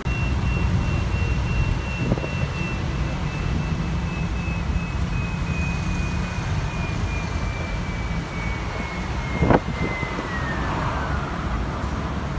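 Tour bus running with a steady low engine rumble and a thin high whine that slowly falls in pitch, then drops away and fades about eleven seconds in. A single sharp knock comes about nine and a half seconds in.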